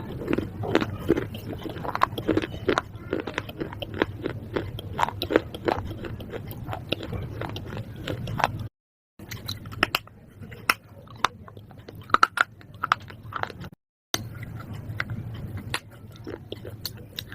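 A person biting and chewing something hard and crunchy close to the microphone: a dense, irregular run of sharp crunches, twice broken by a brief cut to silence.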